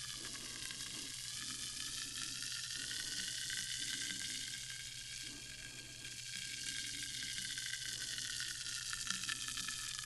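Sparkling water fizzing: a steady, fine crackling hiss of countless small bubbles bursting at the surface.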